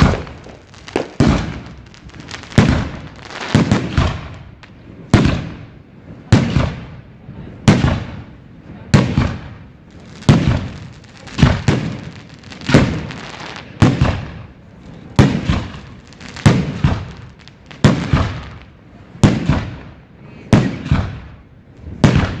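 Large fireworks display going off in a steady run of loud bangs, about one every 1.3 seconds, each one dying away over about a second before the next.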